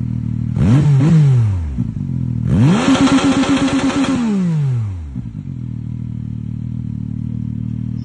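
Zontes 703F three-cylinder engine idling. It is blipped once, then revved up to the rev limiter and held there for about a second and a half, the limiter cutting in as a rapid stutter, before it drops back to idle.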